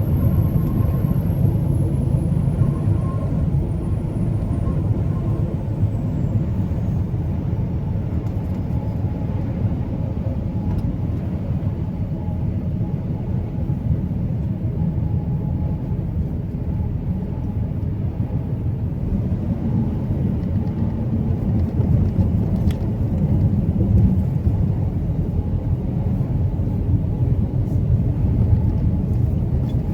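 Truck driving along the road: a steady low rumble of engine and road noise. A faint high whine falls in pitch over the first several seconds.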